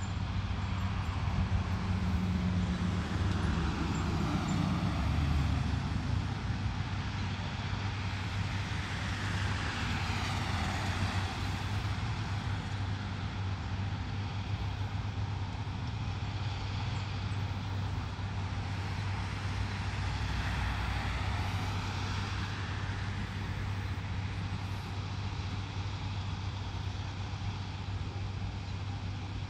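Steady low motor-vehicle engine hum with road noise, swelling twice as traffic passes, about a third of the way in and again past two-thirds.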